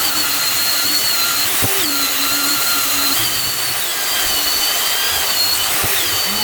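Electric sander running steadily against the wooden sides of a toolbox tray, its motor whine wavering slightly in pitch as it is pressed and moved.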